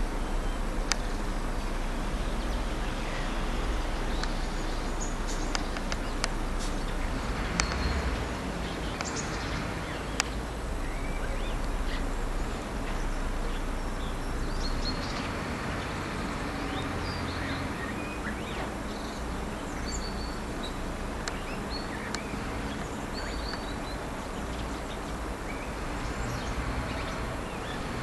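Short, high bird calls, mostly in the second half, over a steady outdoor background rumble like distant city traffic, with a few sharp clicks in the first half.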